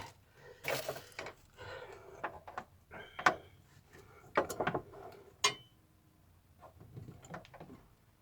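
Handling noises of hands and tools working at a fuel pump assembly: scattered clicks and knocks, three of them sharper, with a short hiss about a second in.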